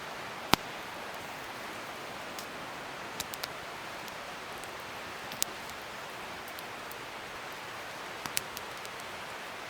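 Wood fire burning with a steady hiss, broken by sharp crackles and pops: a loud pop about half a second in, a quick cluster of three a little after three seconds, another pop in the middle and a pair near the end.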